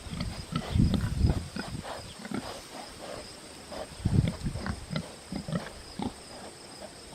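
Pigs grunting: a run of short, irregular low grunts, loudest about a second in and again about four seconds in.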